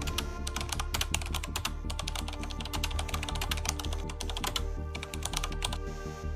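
Background music with a steady low bass line, overlaid by rapid computer-keyboard typing clicks that thin out near the end.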